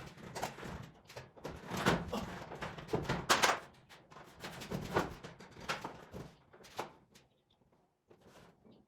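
A run of irregular knocks and clunks, loudest about three and a half seconds in, thinning out after about seven seconds.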